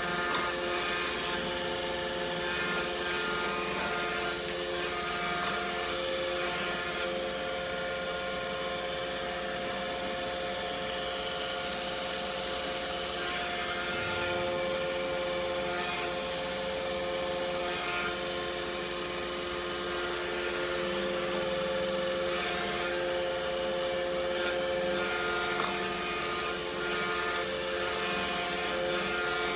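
iRobot Roomba Combo i5 robot vacuum running while it cleans: a steady motor whine of several held tones over the hiss of its suction and brushes.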